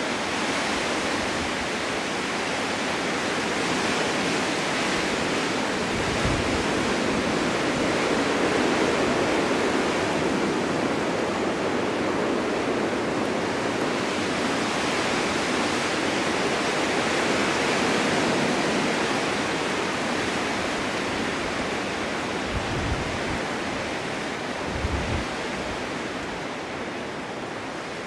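Snowstorm wind blowing steadily in a continuous rush that swells and eases, with a few brief low thumps about six seconds in and twice near the end.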